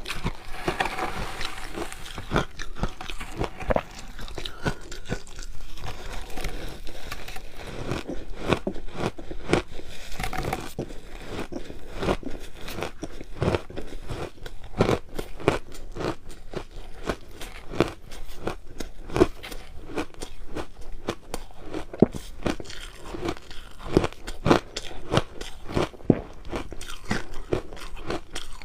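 Close-up crunching and chewing of crushed ice: a rapid, unbroken series of sharp crunches, bite after bite.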